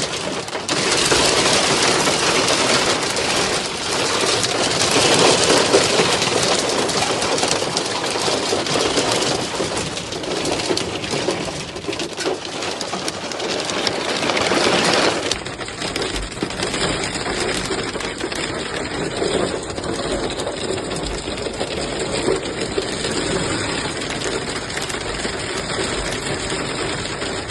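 Severe hailstorm: hailstones pelting down in a dense, loud clatter of countless small impacts. About fifteen seconds in the sound changes abruptly, as at a cut, and the pelting goes on.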